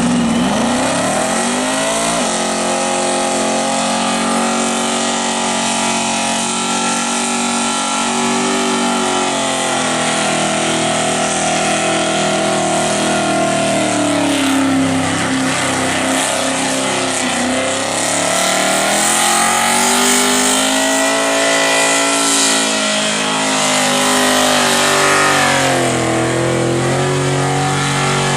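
A car engine revved hard and held at high revs during a burnout. The revs climb over the first couple of seconds, then sag and pick up again a few times, around the middle and again near the end.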